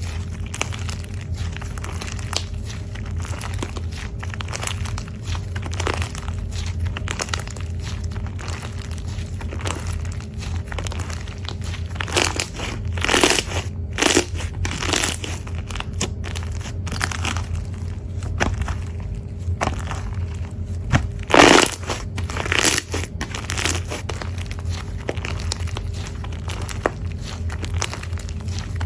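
Slime being squeezed and pressed by hand: a steady run of sticky crackles and small pops, with louder crunchy squishes about halfway through and again around three-quarters of the way in. A steady low hum sits underneath.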